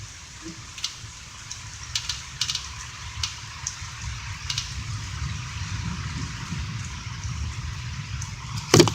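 Steady rain with wind rumbling across the microphone, scattered ticks of drops or handling. A single loud knock near the end.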